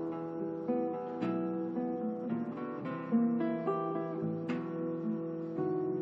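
Background music: acoustic guitar playing a plucked, strummed melody.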